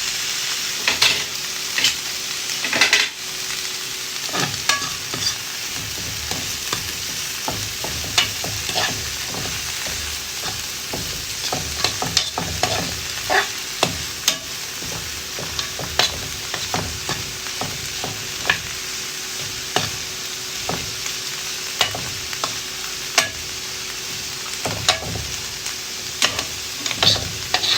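Chopped vegetables sizzling as they are stir-fried in a hot pan, with a steady hiss and a stirring utensil knocking and scraping against the pan at irregular moments throughout.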